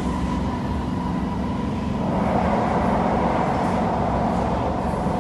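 Passenger-cabin running noise of a C151 metro train moving at speed: a steady rumble of wheels on rails with a steady hum underneath. It grows a little louder about two seconds in.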